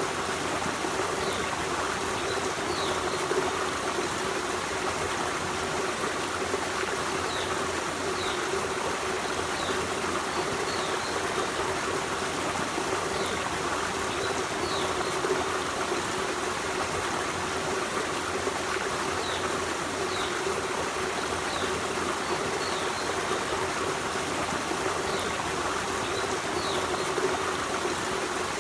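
Forest stream running steadily over rocks, with short high chirps scattered throughout.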